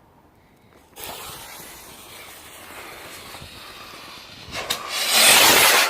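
Garden firework's fuse catching about a second in and hissing steadily, then a much louder rushing hiss for the last second or so as the firework goes off, cutting off sharply.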